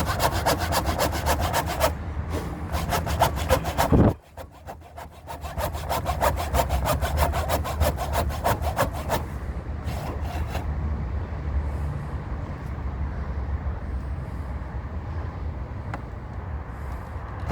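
Saw cutting through timber in fast, even strokes, in two runs broken by a short pause about four seconds in. It stops for good after about ten seconds, leaving a steady low rumble.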